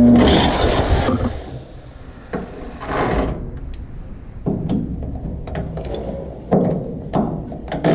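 Mechanical work on a truck frame: scraping, a short rush of noise about three seconds in, and a few sharp metal knocks near the end.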